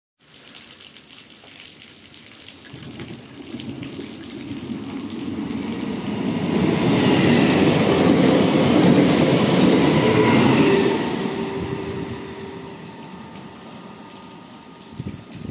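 Electric regional train passing through at speed. Its rumble and wheel noise build up, peak as it goes by, then fade, with a motor whine that drops slightly in pitch as it passes. A faint steady hiss of rain runs underneath.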